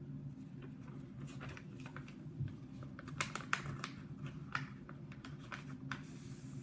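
A sheet of 8.5 by 11 paper being folded and creased by hand: scattered short, sharp rustles and crackles, clustered around the middle and near the end, over a steady low hum.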